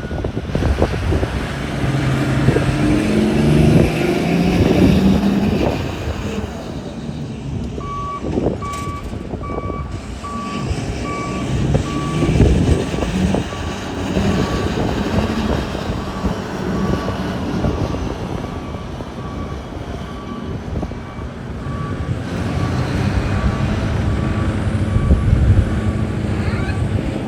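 Large diesel mining machinery running under load, the engine rising in pitch during the first several seconds. From about eight seconds in, a reversing alarm beeps at a steady, even pace, typical of a Komatsu 785 haul truck backing in to be loaded.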